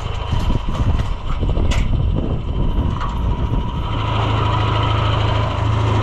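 Tractor engine running at a steady idle, with some irregular clattering in the first couple of seconds. About four seconds in the engine note grows louder and steadier.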